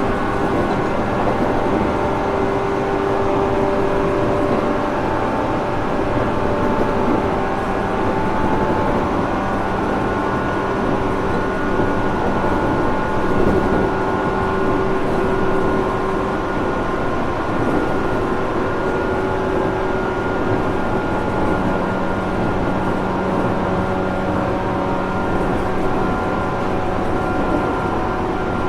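JR Kyushu 415 series 1500 subseries EMU heard from inside a motor car while running at a steady speed: steady traction motor and gear whine in several tones over constant wheel and rail noise. The car is labelled by its recordist as an abnormal-noise unit.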